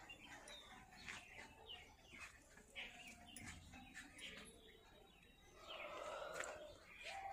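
Faint chirping of small birds, many short scattered calls, with a brief louder noise about six seconds in.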